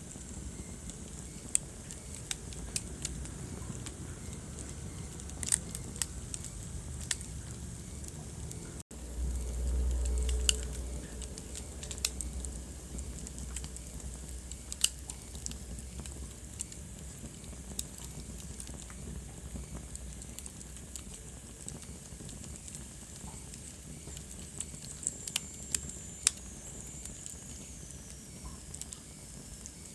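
Wood fire crackling in a fireplace: scattered sharp pops and snaps over a low, steady rumble of the flames. The sound cuts out for an instant about nine seconds in, and the low rumble is louder for a couple of seconds after. A faint high whistle slides down in pitch near the end.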